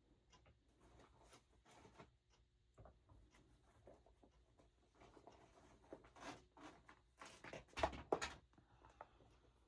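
Faint, scattered rustling and light taps of paper and cheesecloth being handled on a craft table, with a few louder rustles about six and eight seconds in.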